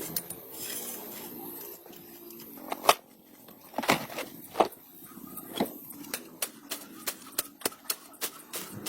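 Irregular sharp clicks and knocks of hard objects being handled, with the loudest knocks about three to five seconds in, then quicker, lighter clicks toward the end.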